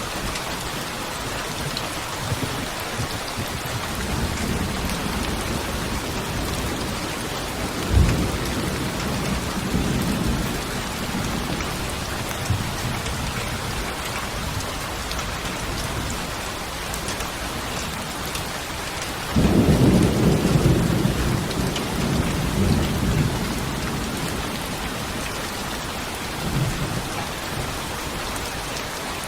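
Steady heavy rain with rolls of thunder: a sharp thunderclap about eight seconds in and a longer, louder rumble starting a little before the twenty-second mark, with smaller rumbles between.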